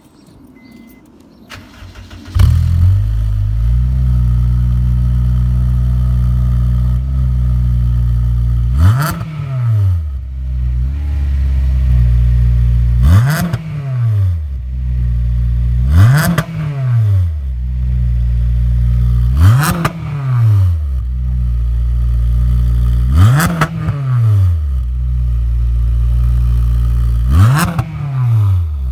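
Honda Civic Type R FD2's K20A four-cylinder engine through a J's Racing titanium 60RS cat-back exhaust. It starts about two seconds in, settles into a steady idle, and is blipped six times with short light-throttle revs, each rising and falling back quickly to idle.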